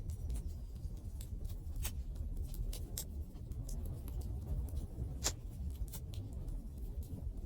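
Wood fire crackling: irregular sharp pops and snaps over a steady low rumble, with one louder pop about five seconds in.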